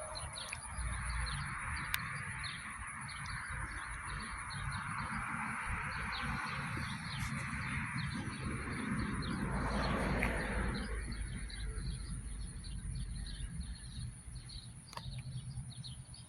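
Outdoor ambience with small birds chirping repeatedly, a steady high insect-like drone, and a broad rushing noise that swells about ten seconds in and then fades.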